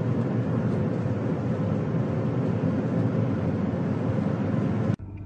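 Steady driving noise of a vehicle on the road, a constant rush of engine and road sound with no clear pitch, cutting off abruptly near the end to a quieter hum.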